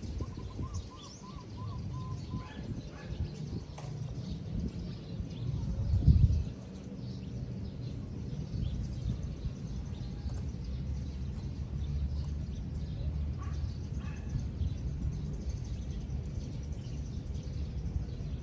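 Scattered bird chirps and calls over a steady low rumble of wind on the microphone, with a stronger gust about six seconds in.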